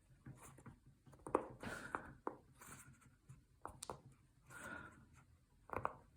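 Silicone pop-it fidget toy being pressed and handled: faint, irregular pops, about seven sharp ones, between short scratchy rubbing sounds.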